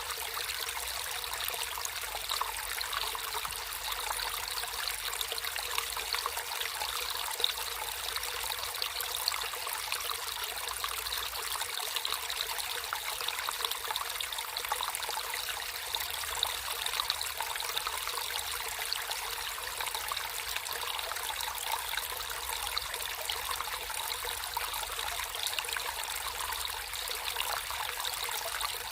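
Water trickling and babbling in a small stream, a steady continuous flow with fine splashing detail.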